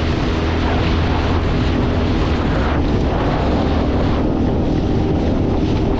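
Honda BF20 four-stroke outboard running steadily at speed, driving an inflatable boat through rough water, with wind buffeting the microphone and water rushing past.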